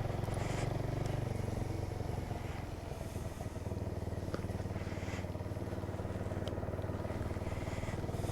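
Small motorcycle engine running steadily while being ridden, the engine note easing off briefly about three seconds in before it picks up again.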